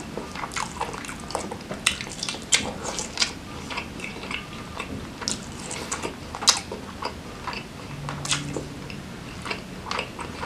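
Close-miked chewing of grilled chicken with sambal: wet mouth smacks and many short, irregular clicks as the meat is eaten by hand.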